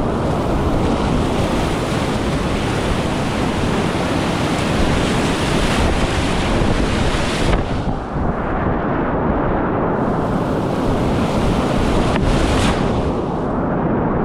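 Loud, steady rush of whitewater rapids in spring runoff, with wind noise on the microphone. The noise dips briefly about eight seconds in.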